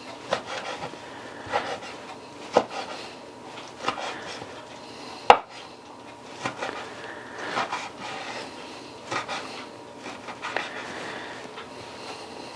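Kitchen knife knocking on a wooden cutting board while cutting up bacon: separate strokes roughly once a second, with one sharper knock about five seconds in.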